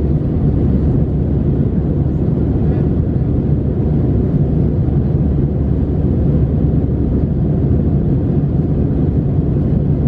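Steady cabin roar of an Airbus A319 climbing after takeoff: the CFM56 engines and airflow make a dense, even low rumble inside the passenger cabin.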